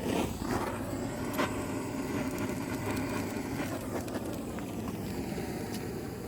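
Flame rushing steadily, with sharp crackles and pops, as alcohol-soaked pine fire-starter and kindling catch.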